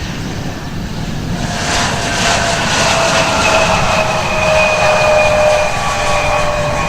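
Jet airliner's turbofan engines running: a steady rumble, with a high engine whine that comes in about a second and a half in and grows louder.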